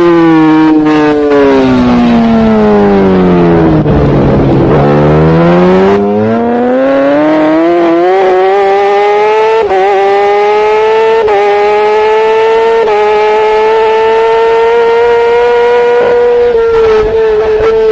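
Superbike engine heard from the bike: revs fall steadily as it slows into a corner, then climb hard out of it. Three quick upshifts follow, about a second and a half apart, and it holds high revs before the note starts dropping again near the end.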